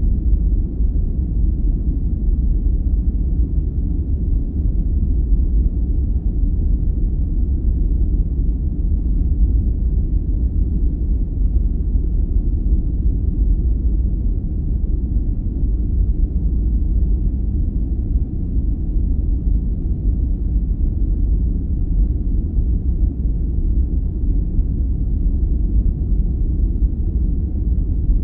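Steady sleep-aid noise, a deep, muffled rumble with its weight in the bass and almost nothing in the treble, unchanging throughout.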